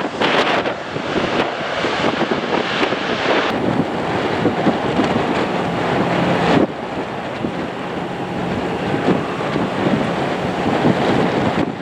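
Jet airliner engine noise mixed with wind buffeting the microphone, cutting abruptly to a different take about three and a half seconds in and again past the middle.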